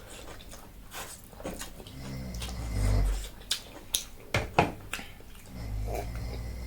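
Close-miked eating sounds of people eating ramen and tteokbokki: chewing and wet mouth noises with low rumbles, and a run of sharp smacks and clicks a little past the middle.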